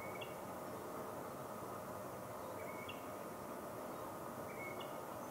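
Three faint, short bird chirps, each a brief flat note stepping up to a higher one, spaced about two to three seconds apart, over a steady background hiss.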